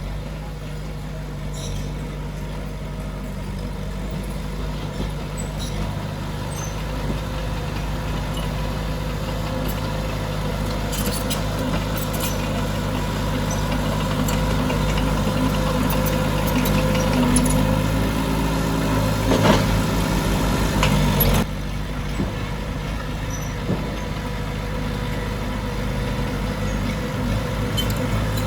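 Heavy diesel earthmoving machinery running steadily and slowly getting louder. A louder, busier stretch cuts off suddenly about three quarters of the way through.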